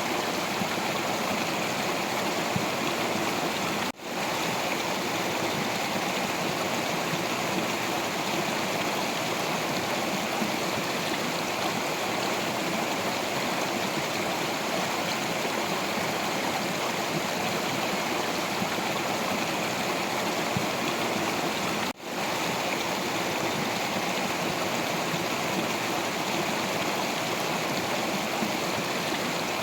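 Stream water flowing steadily over rocks, an even rushing with gurgling. The sound drops out for an instant twice, once a few seconds in and again about two-thirds of the way through.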